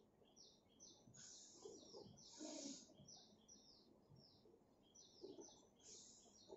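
Faint bird chirping: many short, quick falling notes, irregular and overlapping. A few soft hissing puffs stand out above it about a second in, around the middle and near the end.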